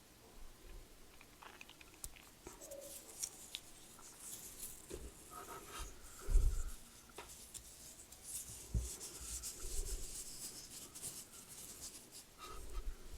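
Soft rubbing and scratching close to a microphone, with scattered light clicks and a single low thump about six seconds in: ASMR trigger sounds.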